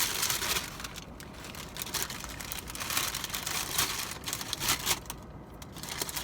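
Paper wrapping crinkling and rustling in irregular handfuls as a corn dog is unwrapped.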